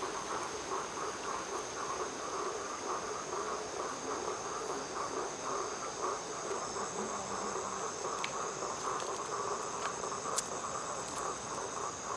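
Insects chirring steadily in a continuous chorus with a high, even tone, joined by a few sharp snaps late on.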